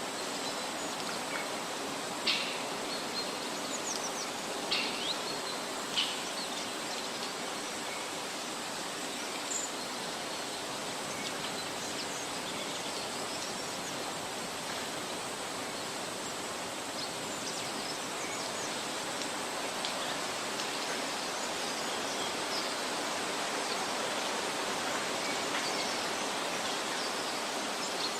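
Outdoor forest ambience: a steady rushing noise like wind in the trees or running water, with a few short, sharp high chirps or clicks in the first six seconds.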